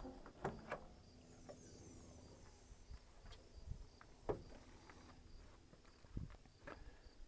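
Faint, scattered clicks and knocks of handling, with a short, faint high hiss about a second in.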